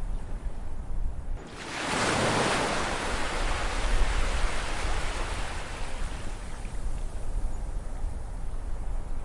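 Ocean waves: one wave breaks about a second and a half in with a sudden swell of hiss, then washes and slowly fades over several seconds, over a steady low rumble of surf.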